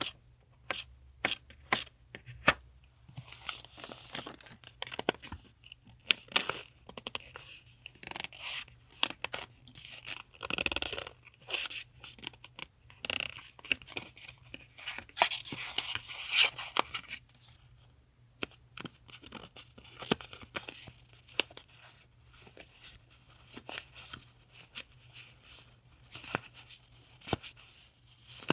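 Paper stationery and its packaging being handled close up: repeated rustling, crinkling and light tapping and clicking as sheets and packets are picked up, shuffled and set down. A faint steady refrigerator hum sits underneath.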